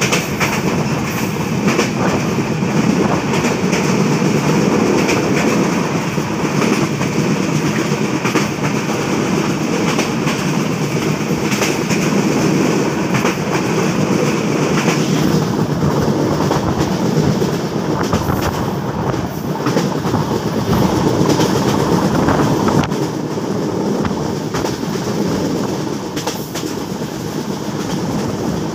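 Passenger train coach running at about 85 km/h, heard beside an open window: a steady loud rumble of the wheels on the rails with frequent clacks mixed in.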